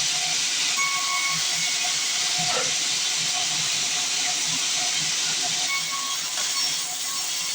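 Sawmill band saw running through wood: a steady, dense hiss with faint steady whining tones over it.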